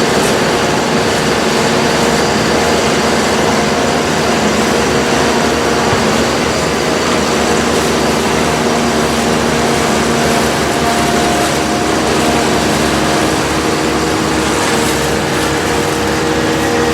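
Tractor and trailed forage harvester running steadily while chopping maize: a loud continuous engine and machine noise with several steady whining tones over it.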